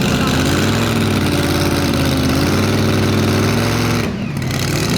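Pro Stock pulling tractor's turbocharged diesel engine running, its revs rising and falling, with a brief dip about four seconds in.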